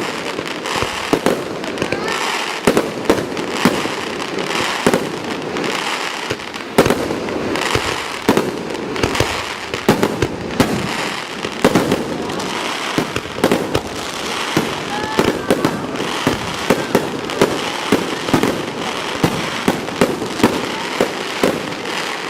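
Fireworks display: aerial shells bursting in rapid succession, a dense run of sharp bangs several times a second with no let-up.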